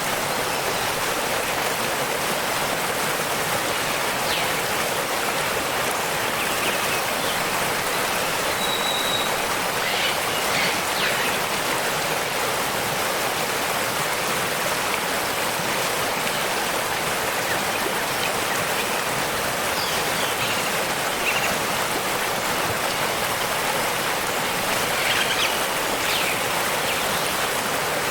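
Waterfall rushing steadily, with a few short bird chirps about a third of the way in and again near the end.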